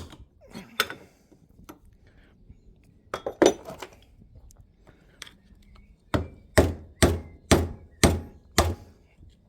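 Hammer blows on a chisel being driven into an old bushing to split it for removal from its bore. A few scattered strikes, then a run of six blows about two a second near the end.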